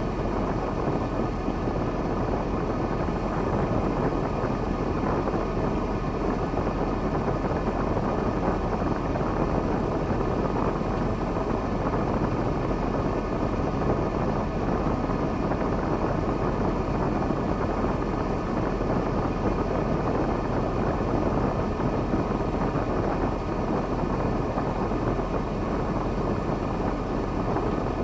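KamAZ timber truck's diesel engine running steadily, a continuous low drone with no change in pace.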